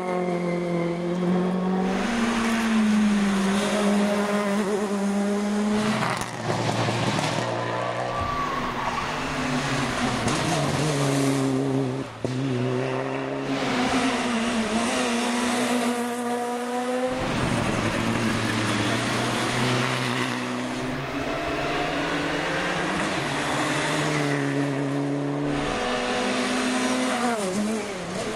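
Rally car engines revving hard under acceleration, with pitch climbing and dropping again and again as gears are changed.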